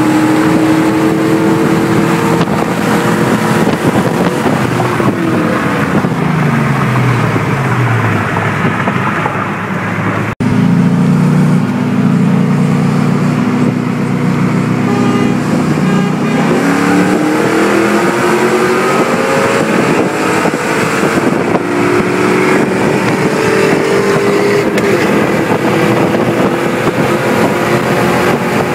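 Car engine heard from inside the cabin over heavy wind and road noise. Its pitch falls over a few seconds as it slows, then after a sudden cut about ten seconds in it holds steady. From about sixteen seconds in it climbs steadily as the vehicle accelerates hard.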